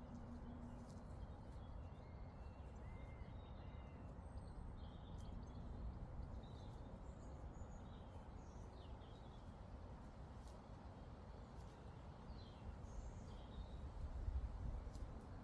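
Quiet outdoor meadow ambience: a steady low rumble of breeze, with faint, scattered small-bird chirps and calls throughout.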